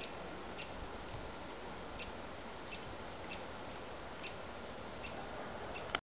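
Wood fire burning in a fireplace: soft crackling, with scattered sharp pops at irregular intervals over a steady hiss.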